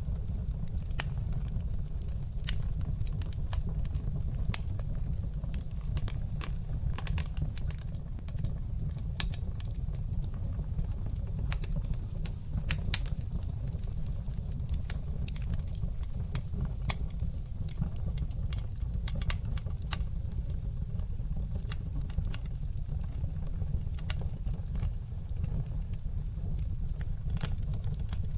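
Wood fire burning in a fireplace, crackling with frequent, irregular sharp pops and snaps over a steady low rumble of the flames.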